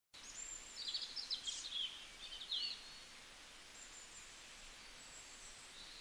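Birds chirping in quick, high twitters over a faint, steady outdoor hiss; the chirping stops about three seconds in and the hiss carries on.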